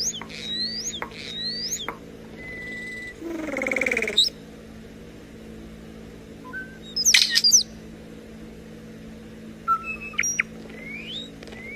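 Starling whistling and mimicking. First come quick rising whistles and a held tone, then a buzzy, falling electronic-like noise that cuts off sharply about four seconds in. A loud burst of chatter follows around seven seconds, and more rising whistles come near the end. A faint steady hum runs underneath.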